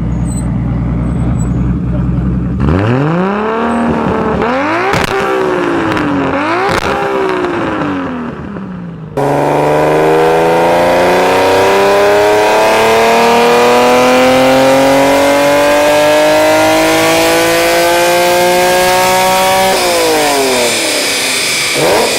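Tuned sports-car engines in quick succession. First a low steady idle. Then several free revs that rise and fall, with two sharp cracks. Then a long full-throttle pull whose pitch climbs for about ten seconds, drops sharply at a gear change near the end, and starts climbing again.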